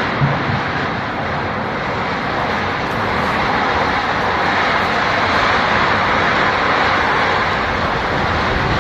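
Strong tornado wind rushing steadily, a dense, even noise that grows slightly louder about halfway through.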